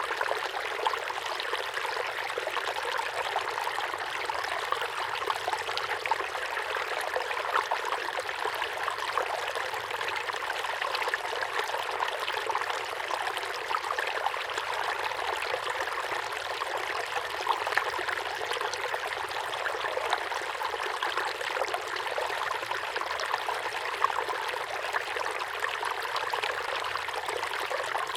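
Small waterfall pouring steadily into a pond: a continuous splashing rush of falling water, with small splashes flickering through it.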